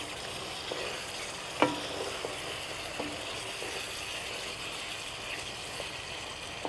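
Chicken vindaloo curry sizzling in a pan on the stove while a spoon stirs it, with a few light knocks of the spoon against the pan, the loudest about one and a half seconds in.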